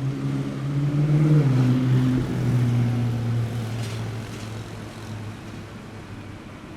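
A car engine running with a steady low note that rises briefly about a second in, then drops in pitch and fades away over the next few seconds, as the car moves off.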